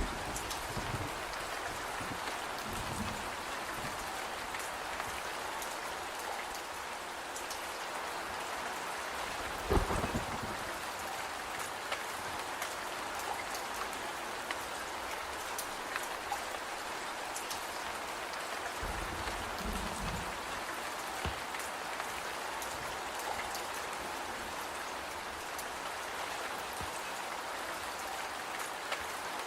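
Steady rain falling with scattered drop ticks, a short low thud about ten seconds in and a brief low rumble near twenty seconds.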